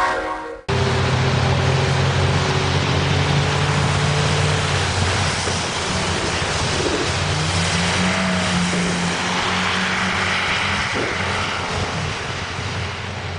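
A heavy vehicle's engine running with a steady low hum under loud rushing noise. Its pitch steps up about halfway through, as the engine speeds up.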